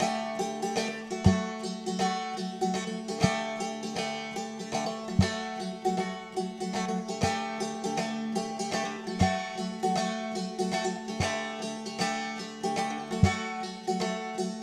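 Background music: plucked string instruments, banjo- or mandolin-like, over a steady low beat about every two seconds.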